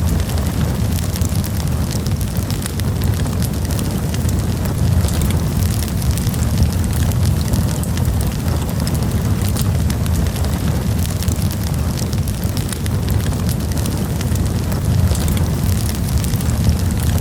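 Campfire burning, with frequent small crackles and pops from the wood over a steady low rumble.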